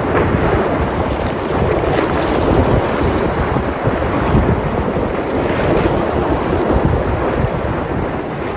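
Sea surf with waves breaking and washing in, with wind buffeting the microphone.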